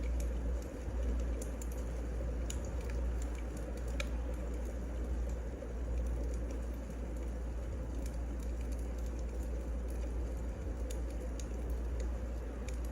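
Firewood burning and crackling: a steady low rumble with scattered sharp pops and snaps at irregular moments.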